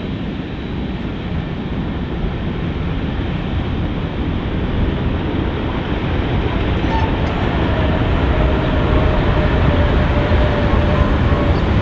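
Norfolk Southern freight train rolling past with a steady rumble of wheels on rail that grows slowly louder. A faint steady high tone joins it about halfway through.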